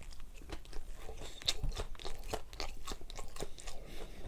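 Close-miked chewing of crunchy food: a rapid, irregular series of crisp crunches.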